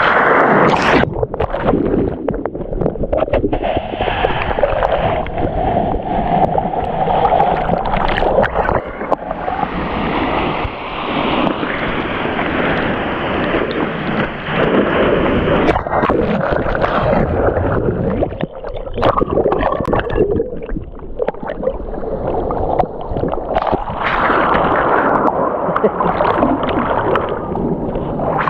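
Ocean shorebreak surging and churning close around a GoPro, with loud rushing and gurgling water as waves break and wash over the camera, easing briefly now and then.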